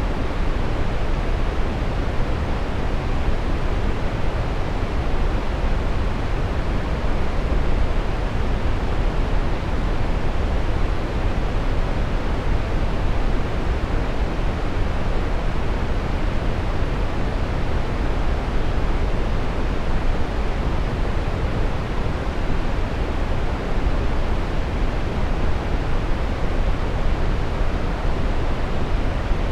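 Steady brown noise: an even, deep rushing hiss, strongest in the bass and fading toward the treble, with no change in level.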